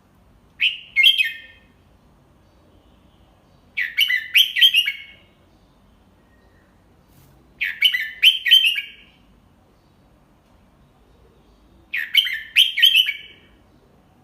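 Red-whiskered bulbul singing the same short, clear song phrase four times, each about a second long and about four seconds apart. It is the slow, clearly delivered 'double-3' phrase that keepers play to young bulbuls as a tutor song to copy.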